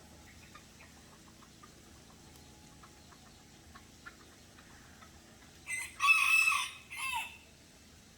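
A Serama bantam rooster crowing once, near the end: a short lead-in, a long held high note, and a brief falling tail, about a second and a half in all.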